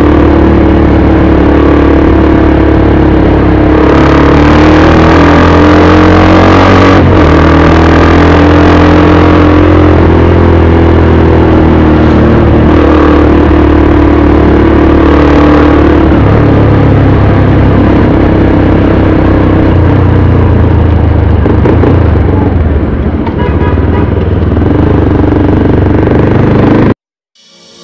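Motorcycle engine running loud under way, its pitch rising and falling as the bike speeds up and slows. The sound cuts off abruptly near the end.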